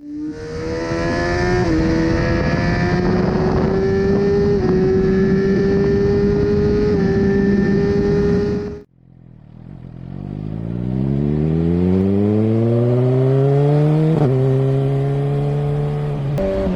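Suzuki GSX-R1000R's inline-four engine at high revs on the move, holding a nearly steady pitch under loud wind rush. About nine seconds in the sound cuts off abruptly. The engine then pulls hard, climbing in pitch before it levels off, with a sudden jump in pitch near the end.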